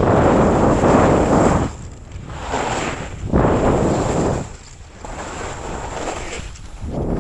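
Skis carving turns on snow, with wind rushing over the microphone. The scraping hiss swells and fades with each turn, about every second or two.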